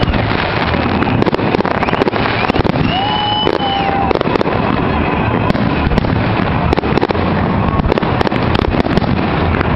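Fireworks salute: shells launched from the ground and bursting overhead in a dense, continuous run of bangs and crackling.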